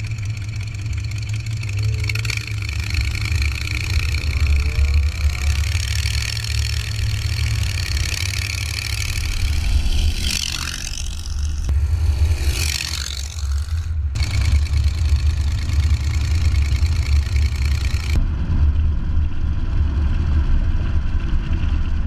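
Chevy 283 small-block V8 in a 1929 Ford Model A hot rod pickup, running as the truck drives along the road. Two sweeping whooshes come about 10 to 13 seconds in, and the sound changes abruptly twice, about 14 and 18 seconds in.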